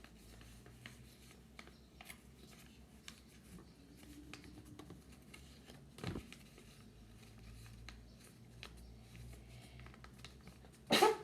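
Paper being folded and creased by hand: faint, scattered rustles and taps over a low steady hum, with a knock about six seconds in and a louder short sound just before the end.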